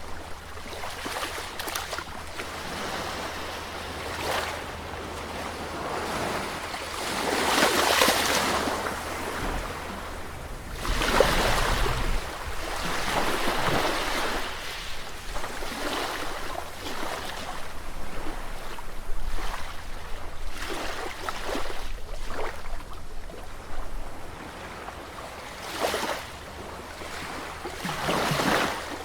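Sea waves surging and breaking on the shore, the rush of water rising and falling in repeated swells, loudest about eight and eleven seconds in.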